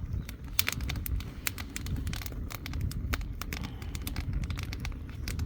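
Firewood burning in an agungi fire-hole, crackling with irregular sharp pops, over a steady low rumble of wind on the microphone.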